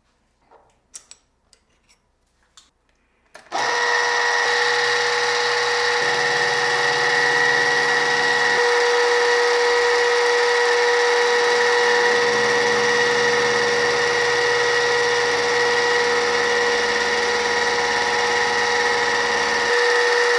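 A few light clicks and knocks, then about three and a half seconds in an electric workshop machine starts abruptly and runs steadily with a high whine.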